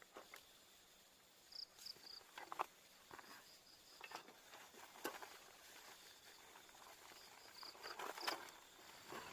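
Faint insect chirping in short repeated notes, with a few light taps and clicks scattered through.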